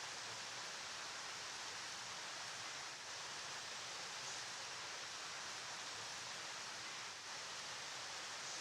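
River water flowing in a steady, even rush, with no single splashes standing out.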